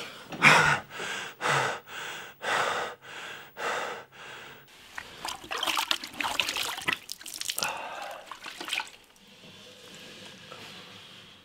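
A man panting hard, about two breaths a second, then water splashing in a plastic basin as his hands work in it. The splashing stops about nine seconds in.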